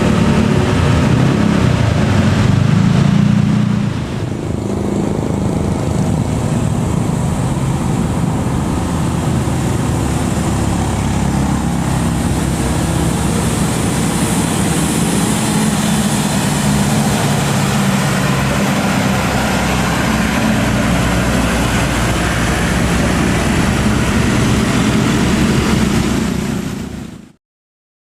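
Heavy diesel truck engine running with a dense low rumble, easing slightly about four seconds in; the sound cuts off suddenly near the end.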